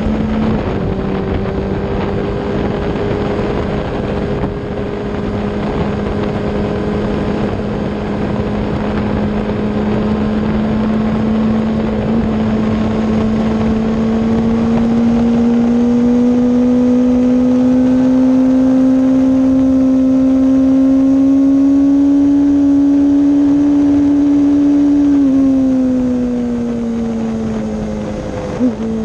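Kawasaki ZX-10RR's inline-four engine heard from on board at speed, running steadily with its pitch climbing slowly through the middle, then falling off about 25 seconds in. A brief sharp sound comes just before the end.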